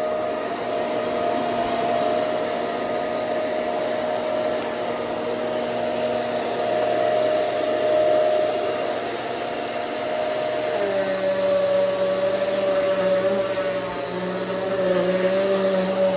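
Hoover Swivel XL Pet upright vacuum cleaner running steadily while vacuuming. About eleven seconds in, its motor tone drops slightly in pitch and turns unsteady as the load changes.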